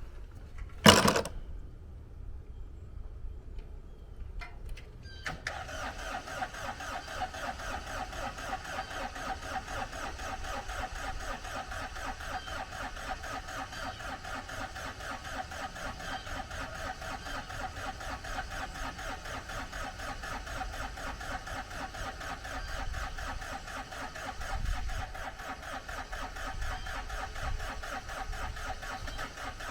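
A single loud bang about a second in, then an engine comes on suddenly about five seconds in and runs steadily with a fast, even pulse.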